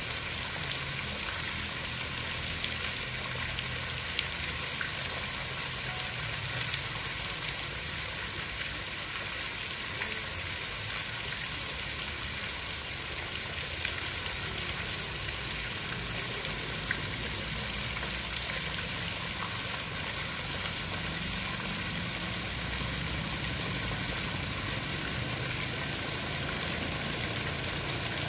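Steady hiss of water with a few faint scattered clicks and a low rumble underneath.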